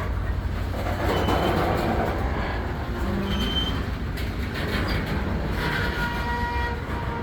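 Freight train rolling with a steady low rumble, and brief high-pitched wheel squeals that come and go.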